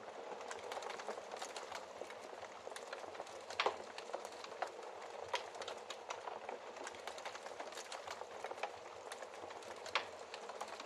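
Wood fire crackling steadily in a fireplace, a constant bed of small crackles with frequent sharp snaps and a couple of louder pops.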